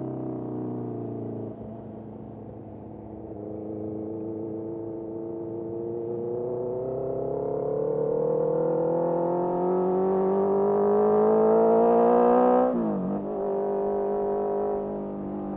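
Honda CBR650R's inline-four engine through a Mivv MK3 carbon exhaust, pulling in one gear with the revs and loudness climbing steadily for about ten seconds. About thirteen seconds in the revs dip sharply, recover almost at once and then hold steady.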